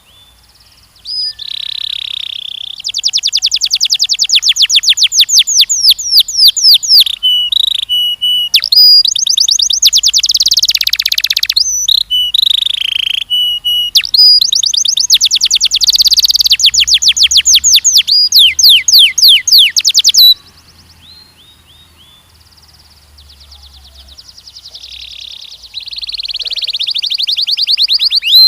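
Canary singing long, fast trills of repeated downward-sweeping notes, phrase after phrase with brief breaks. It falls quiet for a few seconds about two-thirds of the way through, then starts a softer trill that grows louder near the end.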